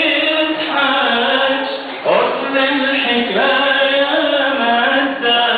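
A man singing an Arabic song in long, held notes that slide from pitch to pitch.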